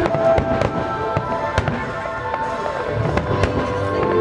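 Aerial firework shells bursting in a string of sharp bangs, several in quick succession with short gaps between.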